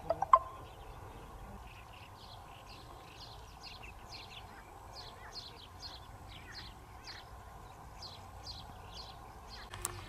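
A small bird calling in short, repeated chirps, about three a second, over a steady low background rumble. A sharp click sounds just after the start and another just before the end.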